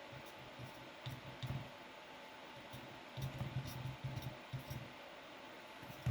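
Faint scattered clicks and soft low knocks of hands handling a paintbrush, paint and a rock while painting.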